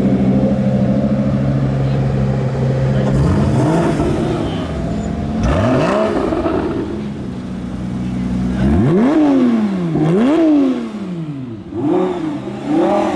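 Sports car engines running, then revved: the pitch rises and falls a few times, with two sharp throttle blips in the second half and smaller ones near the end.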